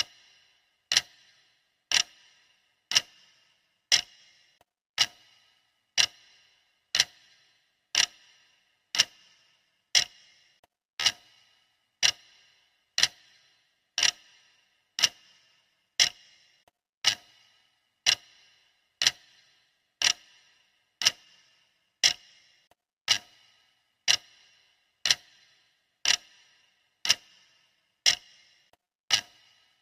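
Clock ticking, one sharp tick a second, steady and even.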